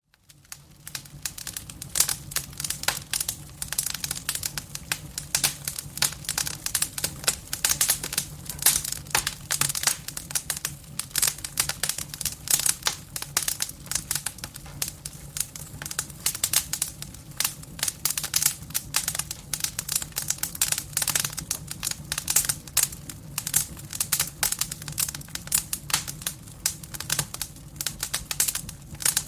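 Firewood burning in a fireplace: a dense, irregular crackling with sharp pops, over a steady low hum.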